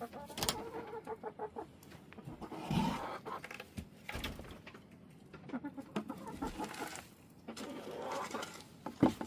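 Domestic hens clucking, with several knocks and thumps, the sharpest one near the end.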